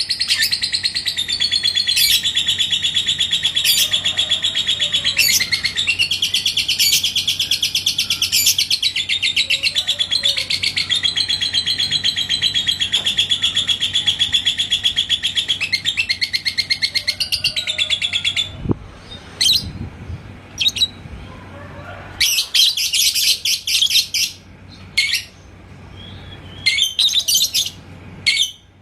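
Yellow lovebird singing its ngekek: a long, unbroken, very fast chattering trill that breaks off about eighteen seconds in, followed by short separate bursts of chirps.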